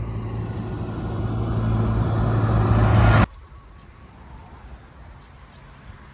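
Motorbike riding noise, engine hum and wind rush, growing steadily louder for about three seconds, then cut off abruptly. A quiet outdoor background with a few faint ticks follows.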